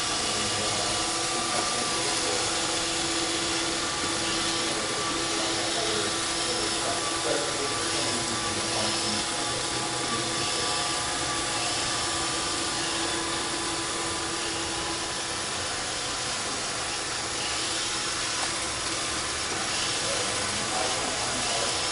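Roomba 531 robot vacuum running: a steady whirring hiss of its motor and brushes, with a constant low hum through it.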